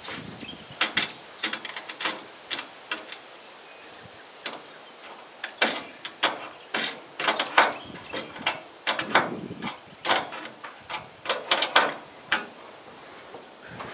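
Irregular metal clicks and clinks of nuts and bolts being fitted and tightened on solar-panel mounting rails, some coming in quick runs.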